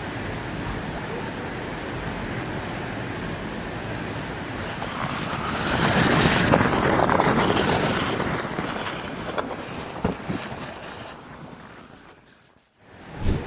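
Rushing wind and water noise, swelling loud about five seconds in and then fading away. A short sharp sound comes right at the end.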